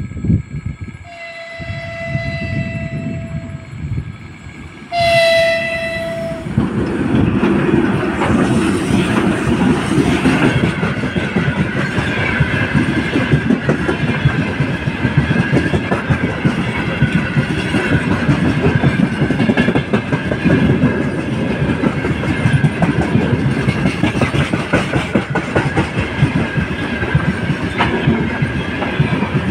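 A 3ES4K 'Donchak' electric locomotive sounds its horn twice as it approaches: a long blast, then a shorter, louder one. The freight train then rolls past with a steady rumble and the clickety-clack of wagon wheels over the rail joints.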